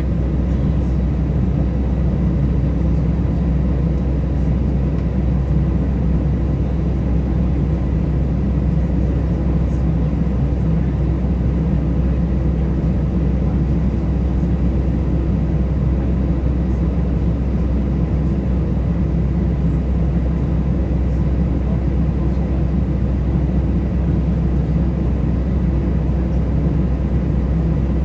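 Steady cabin noise inside an Airbus A320 airliner: a constant low rumble from the engines and airflow, with faint steady tones above it.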